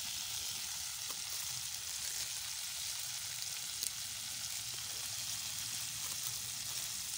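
Water spinach stir-frying in a metal pot over a wood fire, sizzling steadily, with a few faint clicks.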